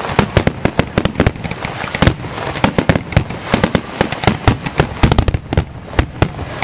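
Professional-grade aerial fireworks going off in rapid succession, a dense run of sharp bangs and crackles several times a second.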